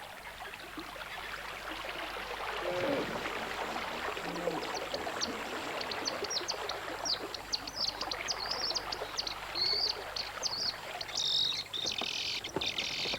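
Many short, high-pitched bird chirps, sparse at first and growing denser and louder toward the end, over a steady background hiss.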